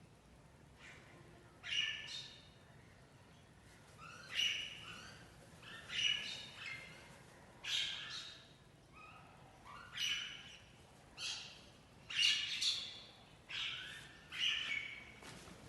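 Birds calling in short, loud, repeated phrases, one every second or two, over faint background hum.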